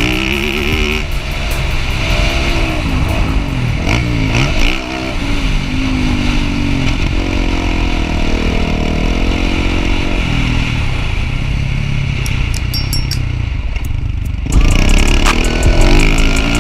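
Motocross dirt bike engines revving, their pitch rising and falling repeatedly. About 14.5 seconds in, a louder, different sound cuts in.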